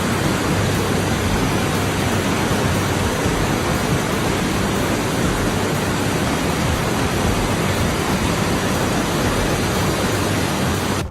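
Loud, steady rushing noise of storm weather, strongest in the low range, with a faint high steady tone over it. It cuts off suddenly at the end.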